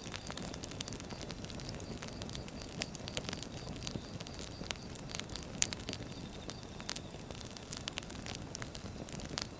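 Burning firewood crackling: frequent sharp snaps and pops over a steady low rumble of the fire, with one louder pop a little past halfway.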